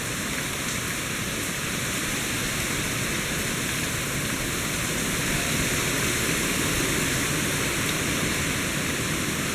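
Hurricane wind and heavy rain: a steady rushing roar that swells slightly around the middle.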